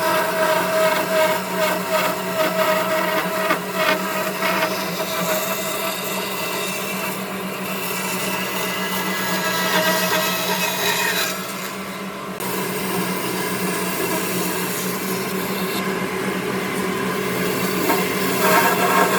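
An electric power tool running steadily as it works wood, its motor holding one pitch with a rough, scraping layer over it. The sound eases briefly about eleven seconds in, then picks up again and grows rougher near the end.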